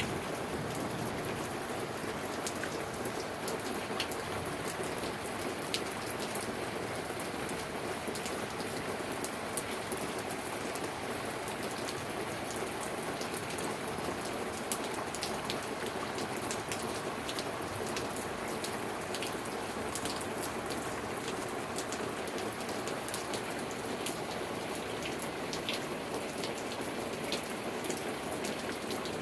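Steady rain falling, with many single drops ticking sharply on a surface close by. No thunder is heard.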